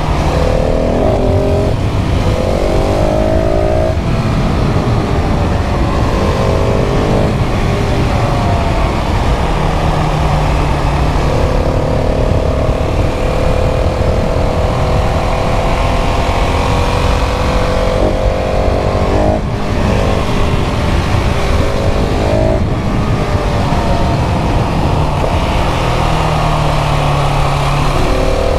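KTM 690 SMC R's single-cylinder engine on its stock exhaust, howling as it pulls hard up through the revs. The pitch climbs and drops sharply at each gear change, over and over as the bike accelerates.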